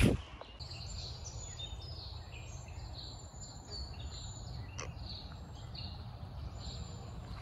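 Birds chirping in many short high calls, over a steady low rumble of wind noise. A brief bump from the camera being handled comes at the very start.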